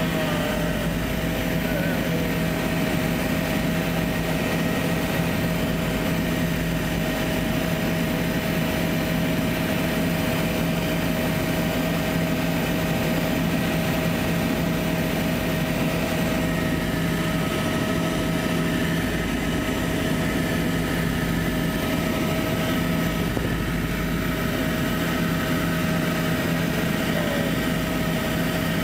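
Helicopter engine and rotor noise heard from inside the cabin: a steady, even drone with a constant low hum.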